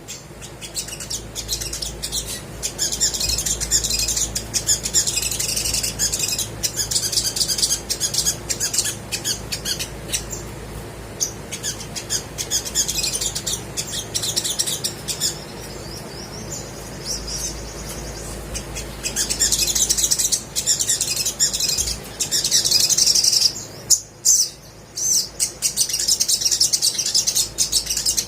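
Olive-backed sunbird singing: rapid, high-pitched chirps and trills in long bouts, with a lull in the middle and a short break near the end.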